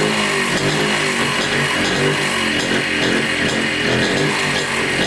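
Montesa Cota 247's single-cylinder two-stroke engine running at a fast, slightly wavering speed, just brought back to life after decades laid up. Its idle and tuning have not yet been set.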